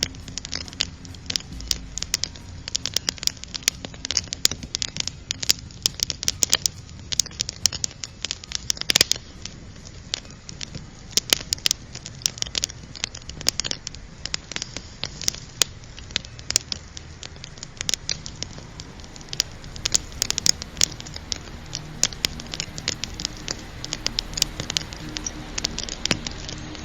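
Wood fire crackling, with many sharp, irregular pops and snaps over a soft hiss.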